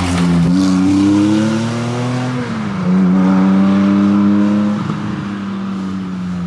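Rally car engine under load, its pitch rising and then dropping sharply about two and a half seconds in before holding steady and easing down slowly.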